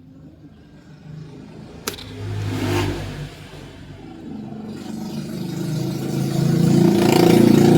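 Suzuki Multicab's F6A three-cylinder engine running, with a sharp click about two seconds in and a short rev, then revved up steadily, loudest near the end.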